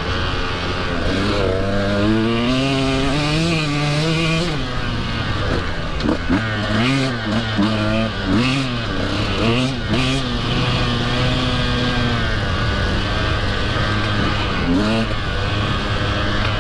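Husqvarna TE150 two-stroke dirt bike engine being ridden hard, its pitch climbing and dropping with the throttle: one long climb early, then a run of quick rev-ups and drops, and a steadier stretch near the end.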